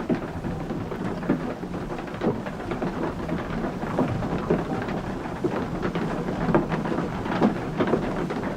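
Water-powered sawmill running: a steady rumble of falling water and machinery, with irregular knocks and clatters.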